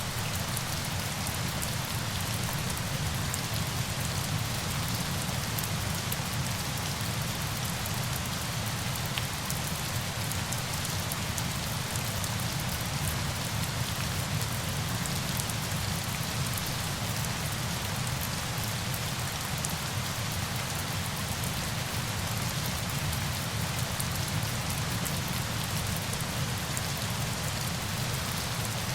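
Steady falling water, rain-like: an even hiss with a low rumble beneath it and no change in level.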